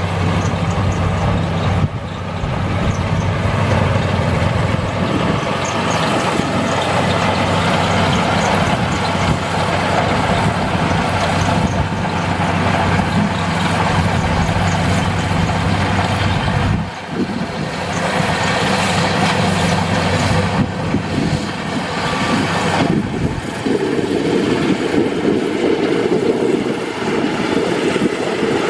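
Crown Sumo rice combine harvester running with a loud, steady engine drone. Its tone shifts a few times: about two seconds in, with a brief dip around seventeen seconds, and again near twenty-four seconds.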